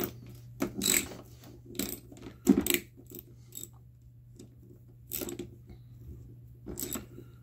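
Irregular metal clinks and knocks as screws and steel hinge parts of an oven door are worked by hand with a screwdriver, the sharpest knock about two and a half seconds in, over a steady low hum.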